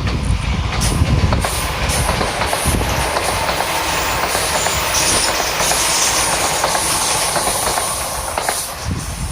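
Izukyu 2100 series Resort 21EX seven-car electric train running past, its wheels clicking over the rail joints over a steady rolling noise that eases a little near the end.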